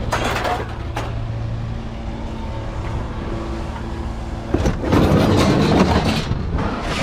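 A vehicle engine idling with a steady low hum, with a louder, rougher stretch of noise for about two seconds starting around the middle.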